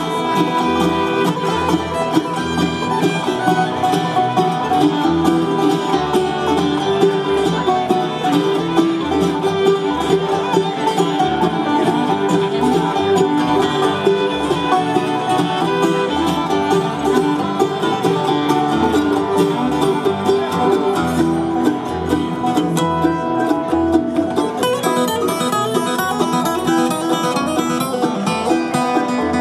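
Bluegrass band playing an instrumental tune live, banjo, fiddle and guitar over a steady low beat. The texture changes about 25 seconds in as another instrument takes the lead.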